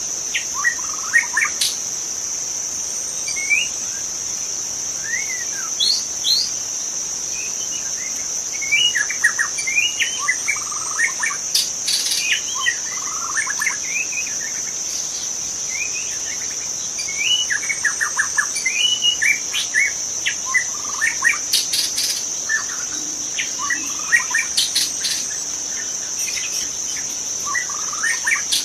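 White-rumped shama singing a varied, quick-changing song of whistles and chirps, in runs of phrases with short gaps, over a steady high-pitched insect drone.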